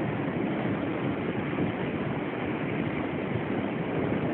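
Express Rakyat passenger train running through the station, heard from aboard: a steady rushing noise of wheels and passing air with no breaks.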